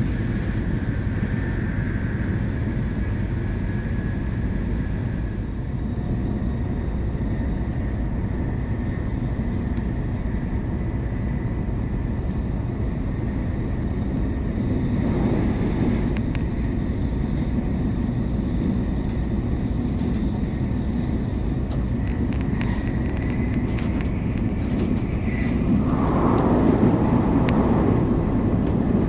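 Steady rumble of a Shinkansen bullet train running at speed, heard from inside the passenger cabin, swelling louder about halfway through and again near the end.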